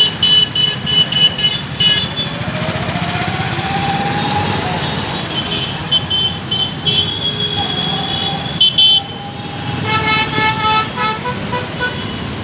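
Busy road traffic with vehicle engines running and frequent horn honking. There is a rapid string of short toots in the first two seconds, a longer held horn in the middle, and another burst of short toots about ten seconds in.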